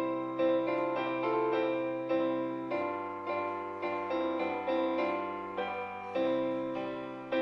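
Background music: a slow hymn tune played on piano, chords struck in an even pulse, each note fading before the next.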